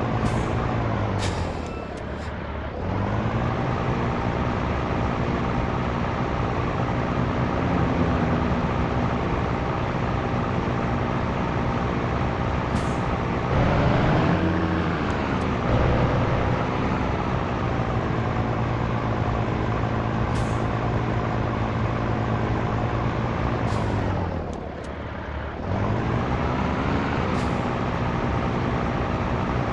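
Scania T113 truck's six-cylinder diesel engine running under load. The revs drop and pick up again about two seconds in and near the end, as at gear changes, and short hisses of air come through several times.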